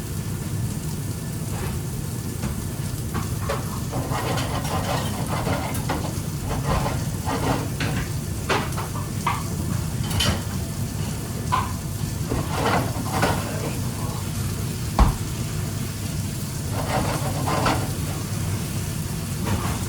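Food sizzling in a pan with repeated scraping and clatter of a utensil being stirred, over a steady kitchen hum; one sharp knock about fifteen seconds in.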